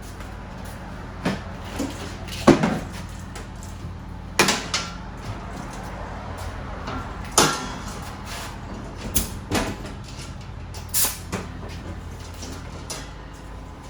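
Scattered sharp knocks and clatters, about a dozen spread unevenly, from panels and debris being pulled down while gutting a school bus interior. A steady low hum runs underneath.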